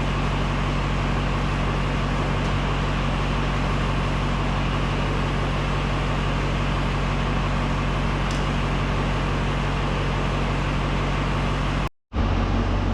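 Boom truck's engine running steadily at an even speed, with a brief drop-out near the end.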